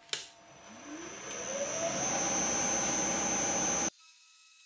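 Milling machine spindle switched on with a click, its motor whine rising in pitch over about a second as it spins up, then running steady with a high whine. The sound cuts off suddenly near the end, leaving a fainter steady hum.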